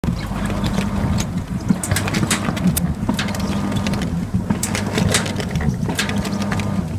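Coin-laundry sneaker washing machine running a wash: a steady motor hum with irregular clicks and knocks as the sneakers are churned in the sudsy drum.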